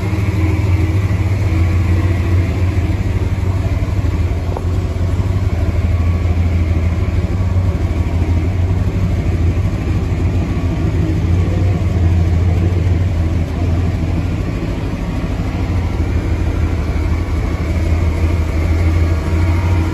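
A 454 cubic-inch Chevrolet big-block V8 with a 4-barrel carburetor, running steadily with a low, even engine note and no revving.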